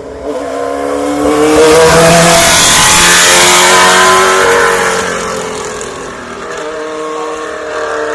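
Osella Formula One car's engine at full throttle as it passes, its note climbing and gliding, loudest about two to four seconds in, then fading away.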